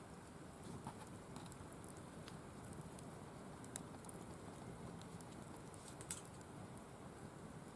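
Firewood burning in a wire-mesh fire stand: a low steady rush with scattered sharp crackles and pops, a handful of them.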